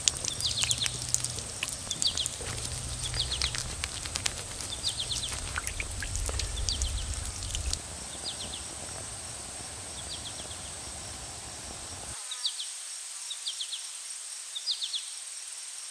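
Outdoor ambience with a bird repeating short bursts of high chirps about once a second, over a faint steady high whine. A low rumble runs underneath and cuts off suddenly about twelve seconds in.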